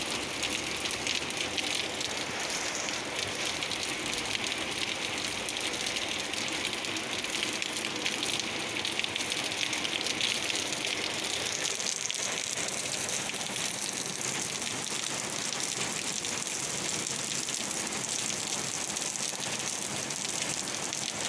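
Heavy rain pouring down and splashing on a flat, water-covered concrete ledge: a steady, dense hiss.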